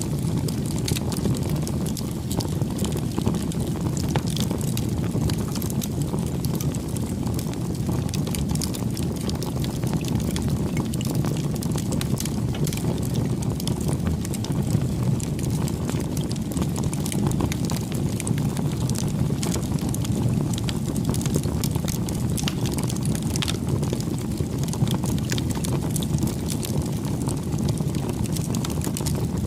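Bonfire burning: a steady low rush of flames with frequent small, irregular crackles and pops of the burning wood.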